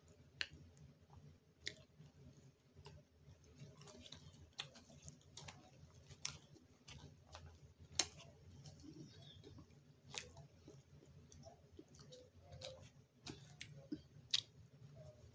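Faint close-up chewing of a mouthful of salad with chicken and apple, with a dozen or so brief sharp clicks at uneven intervals.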